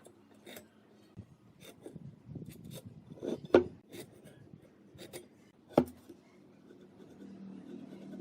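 Wooden workpieces being handled: light rubbing and scraping with scattered small knocks, and two sharper wooden knocks, one near the middle and one about two seconds later.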